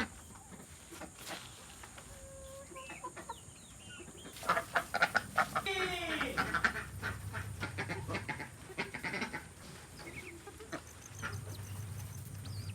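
Chickens clucking, with a denser run of short calls about a third of the way in that includes one falling call, then scattered clucks.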